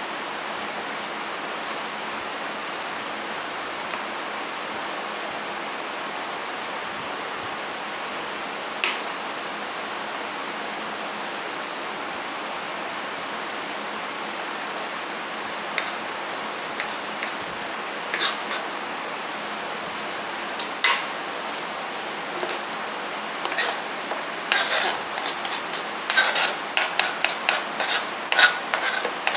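Kitchen utensils and dishes clinking and knocking over a steady hiss, sparse at first and becoming a busy, irregular clatter near the end.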